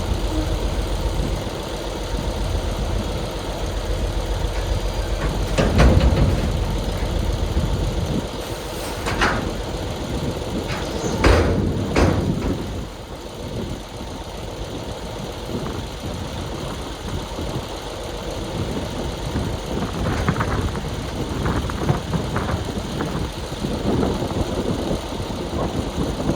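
Heavy diesel engine of construction equipment running steadily, with several loud clanks about six, nine and eleven to twelve seconds in, and lighter knocks later.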